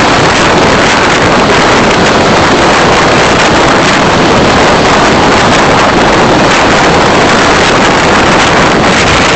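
Steady, loud rush of wind and road noise from a moving car, picked up by a dash camera's microphone.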